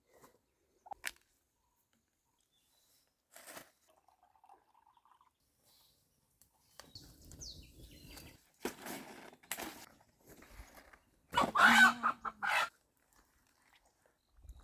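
A chicken squawking loudly for about a second, late on, after several seconds of scattered scuffling and rustling.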